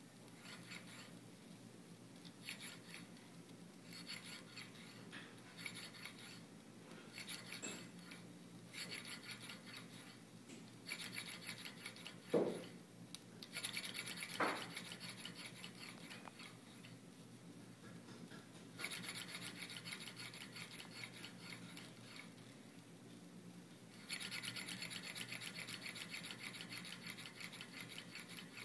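Small model Stirling engine running, a fast, even rhythm of light rubbing strokes from its moving parts that steps up in loudness about two-thirds of the way through and again near the end. Two short falling squeaks near the middle.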